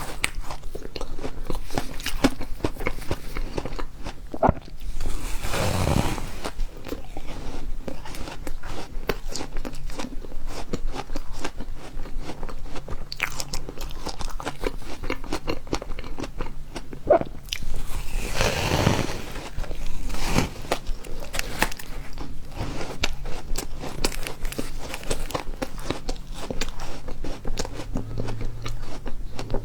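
Refrozen ice being bitten and chewed close to the microphone: a dense, irregular crunching and crackling that goes on throughout, with two longer, louder bursts about six and nineteen seconds in.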